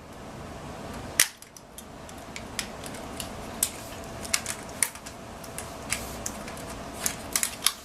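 Irregular sharp clicks and ticks of a knife blade working at a plastic zip tie and the hard plastic packaging around it, the loudest about a second in and a quick run of them near the end.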